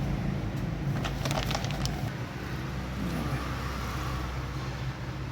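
A steady low engine hum with a quick run of light clicks about a second in.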